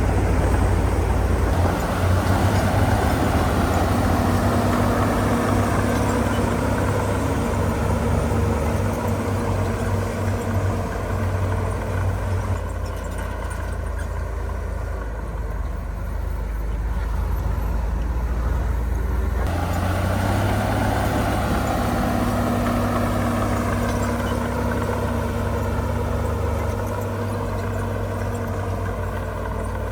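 Heavy diesel engine of earthmoving machinery running with its revs rising and falling. It works harder for the first dozen seconds, eases off for several seconds, then picks up again about twenty seconds in.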